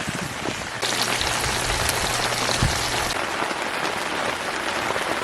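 Heavy rain pouring down, a dense steady patter of drops; it turns abruptly louder for about two seconds from about a second in, then drops back.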